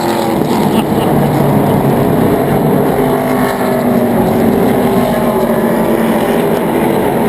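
NASCAR stock cars' V8 engines running on track, a loud steady engine sound from the field of cars.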